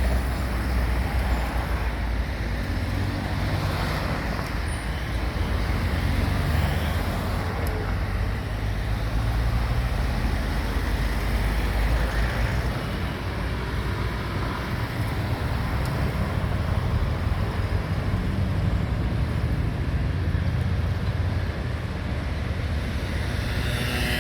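Steady city traffic noise: a continuous low rumble of passing road vehicles.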